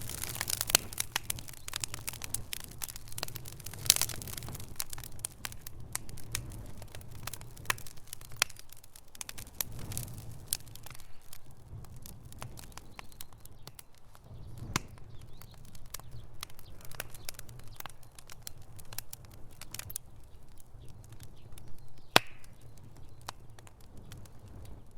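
Wood fire in a fireplace crackling: a steady run of small pops and snaps over a low rumble, with a few sharper pops, one about four seconds in and a louder one near the end.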